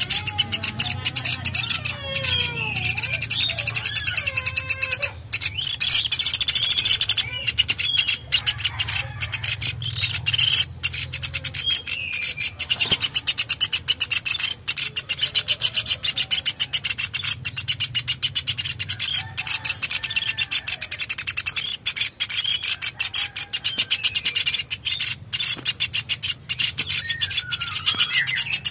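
Birds chirping: a dense, rapid run of high chirps throughout, with sliding whistled calls here and there.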